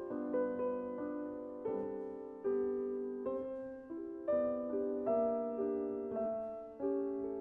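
Slow, gentle piano music: single chords and notes struck about once a second, each left to ring and fade.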